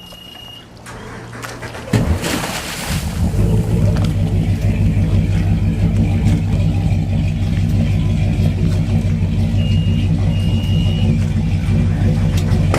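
Crusader 8.1-litre fresh-water-cooled inboard V8 starting about two seconds in and then idling steadily.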